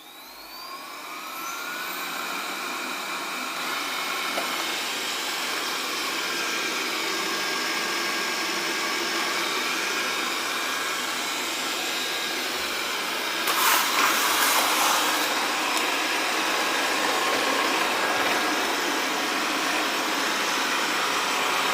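Xiaomi robot vacuum starting its cleaning run: its motor spins up with a rising whine over the first couple of seconds, then runs steadily with a whirring hiss. About two-thirds through, a louder, rougher stretch lasts about a second and a half.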